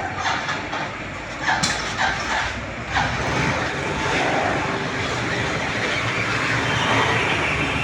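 Vehicle noise: a few sharp knocks or clatters in the first three seconds, then a steady rumbling hiss.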